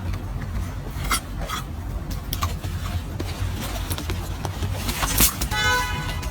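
A plastic bag crinkling in a few sharp rustles and clicks over a steady low hum, with a brief high-pitched squeal near the end.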